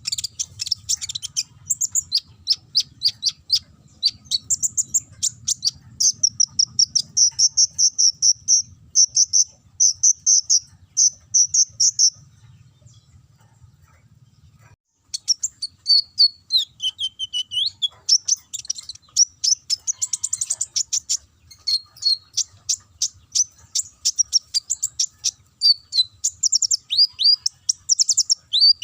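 A konin (kolibri ninja) sunbird singing: rapid, high-pitched chirps and short trills in quick runs, with canary-like phrases. The song stops for about three seconds roughly twelve seconds in, then resumes.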